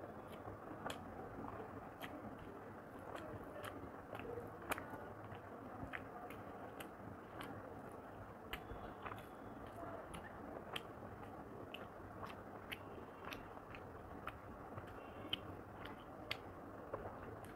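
Close-up chewing and mouth sounds of a person eating rice and chicken curry with the fingers, with many small, sharp clicks scattered throughout.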